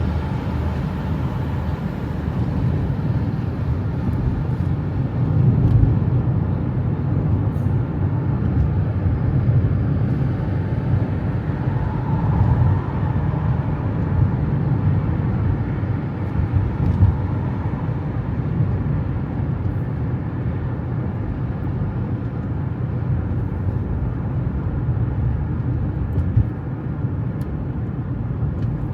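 Steady low rumble of a road vehicle in motion, with no distinct events.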